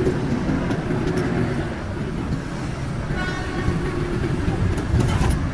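Road traffic rumbling past, with a vehicle horn sounding briefly about three seconds in.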